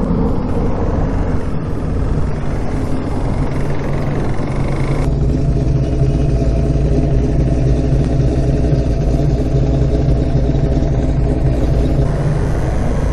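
Motorcycle engine running steadily while riding, with wind rush on the helmet microphone. About five seconds in the wind hiss drops off sharply, leaving mainly the engine's low drone, and the hiss picks up again near the end.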